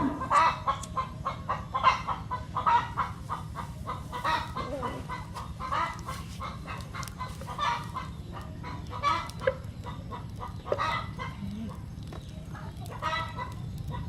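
Chickens clucking, many short irregular calls a few times a second, over a steady low hum.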